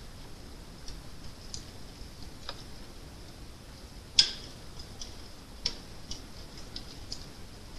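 Crackling fire: irregular small crackles and snaps over a soft steady hiss, with one sharp loud pop about four seconds in and a smaller one a second and a half later.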